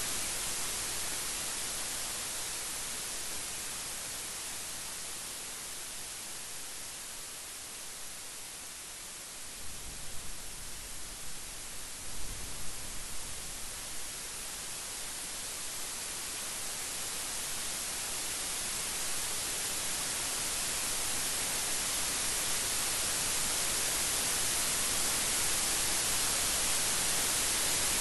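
Steady heavy rainfall that eases over the first third, then builds steadily louder to the end, with a few low rumbles of thunder near the middle.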